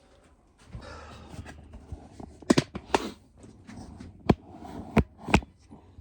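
Rustling handling noise with about five sharp knocks and clicks in the second half.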